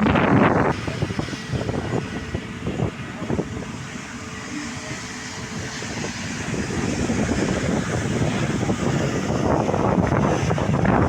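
Wind buffeting the microphone, with a broad jet-engine rumble from an airliner that grows louder over the last several seconds.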